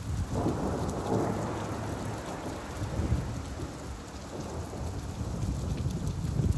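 Steady rain with a deep rumble that swells about half a second in and dies away over the next few seconds.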